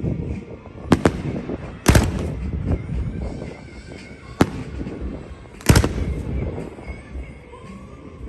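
Aerial fireworks going off: four sharp bangs, about a second in, at two seconds, midway and near six seconds, each followed by a rolling rumble, with crackling between.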